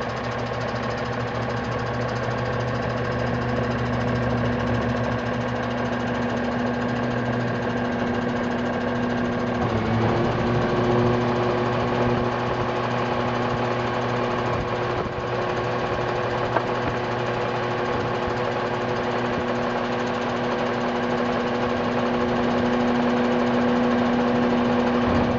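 Mercedes diesel engine of a 2009 Freightliner M2-106 recycle truck running steadily with a diesel knock. Its note changes about ten seconds in.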